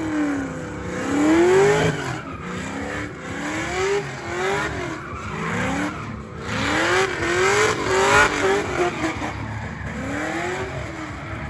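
Car engine revving hard in repeated rising sweeps, roughly one a second, over a haze of spinning-tyre noise during a burnout.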